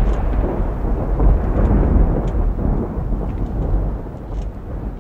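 Thunder rumbling, a deep roll that dies away slowly.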